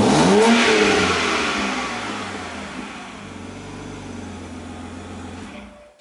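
BMW E92 328i's 3.0-litre straight-six with the muffler deleted, blipped once sharply at the start and then dropping back toward idle over the next few seconds. The sound stops abruptly near the end.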